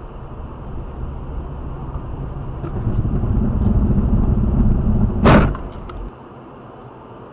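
Car rumble growing steadily louder, then one sharp crash of impact about five seconds in. A second later the sound drops abruptly to a low steady hum.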